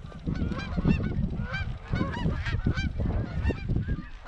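A flock of Canada geese honking, many short overlapping calls coming thick and fast, over a steady low rumble of wind on the microphone.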